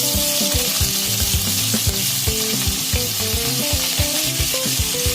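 Chopped onions frying in hot mustard oil in a kadhai with whole spices, a steady sizzle, with background music and a steady beat underneath.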